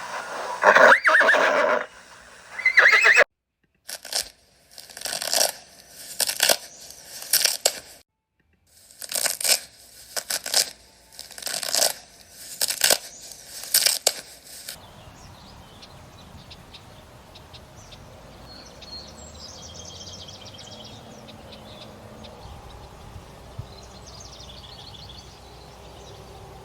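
A horse neighing: a run of short, loud calls through the first half, then a quieter steady stretch with a few faint high chirps.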